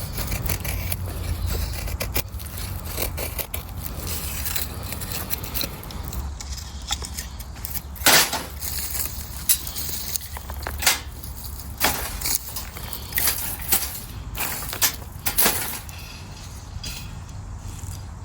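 Irregular sharp clicks and knocks of camp-cooking handling, a handful of louder ones in the second half, over a steady low rumble.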